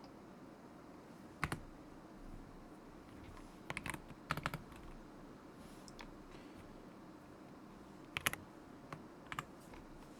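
Keystrokes on a stock KZZI K75 Pro mechanical keyboard with Moment linear switches: a few short, scattered bursts of typing with pauses between them.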